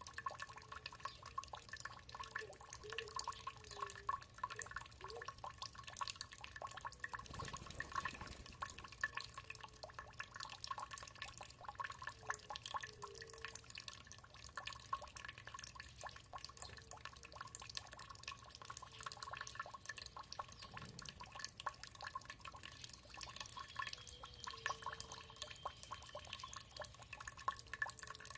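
Water trickling and dripping, a steady dense patter of small drops.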